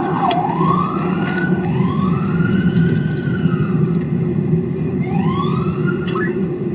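Police car siren on a wail, rising and falling in slow sweeps every two to three seconds, over a steady low rumble of engine and road noise.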